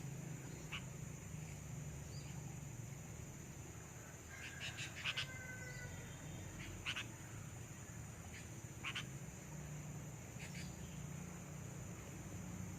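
Short, harsh quacking calls of a white-breasted waterhen, scattered singly and in a quick cluster about five seconds in, over a steady high hiss.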